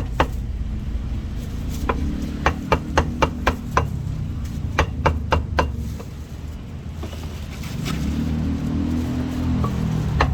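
Cleaver chopping roast meat in quick runs of sharp strokes, about four a second, with a few seconds' pause in the middle. A low engine rumble runs underneath and grows louder near the end.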